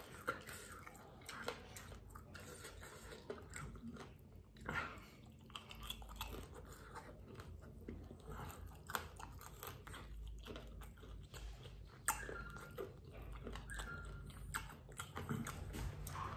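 A person chewing and biting into crispy fried chicken: faint, irregular crunches and mouth clicks.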